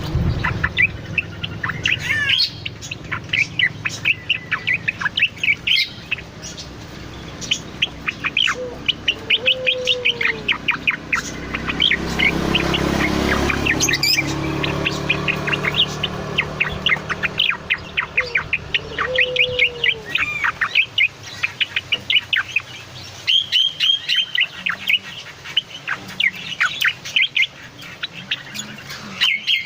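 A cucak loreng songbird singing a long, busy run of rapid high chirps and trills with short breaks. A lower, curving note comes twice, and a rushing background noise swells and fades about halfway through.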